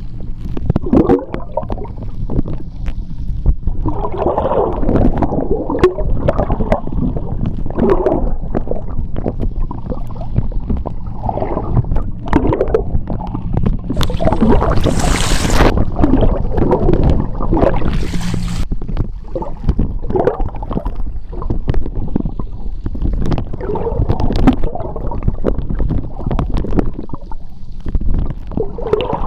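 Seawater heard underwater: a steady low rumble with irregular gurgling and bubbling, and a brighter hissing stretch from about halfway through lasting some four seconds.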